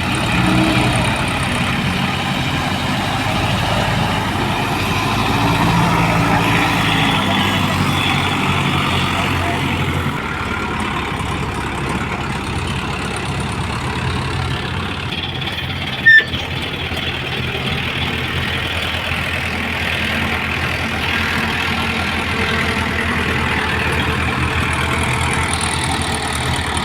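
Heavy diesel machinery running steadily at an earthworks loading site. The low engine note shifts about ten seconds in, and a single sharp knock sounds about sixteen seconds in.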